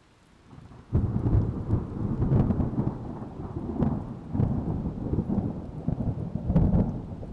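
Loud low rumbling noise that starts suddenly about a second in and then swells and fades irregularly, with faint crackle above it, in the manner of a thunderstorm with rain.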